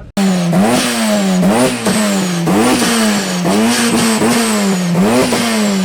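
Car engine revved hard about six times in a row, roughly once a second, with a high whine that rises and falls with each rev. The revs drop away near the end.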